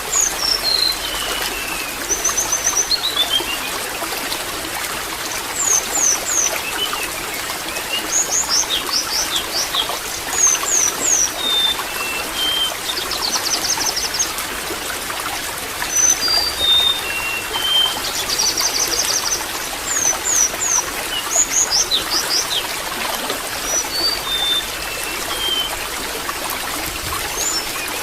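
Water trickling and splashing steadily, with birds singing over it: short whistled notes, quick clusters of chirps and fast trills, repeating every couple of seconds.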